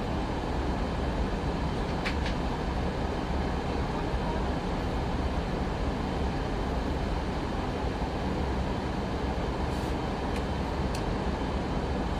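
Airbus A319 cabin noise in flight during the descent: a steady, even rush of airflow and engine rumble, heaviest in the low end, with a few faint clicks.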